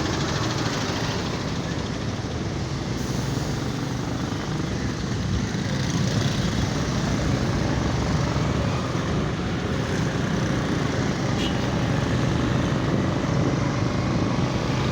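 Motorcycle running steadily while riding along city streets: a low engine hum under a continuous rush of road noise.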